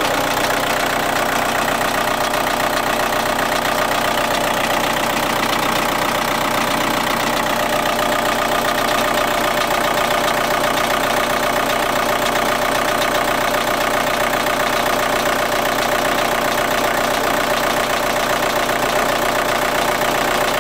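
Volkswagen 1.9 TDI four-cylinder diesel idling steadily, with a clatter coming every few seconds. The clatter appears in the first few minutes after a cold start and then stops, and its cause is unknown to the owner.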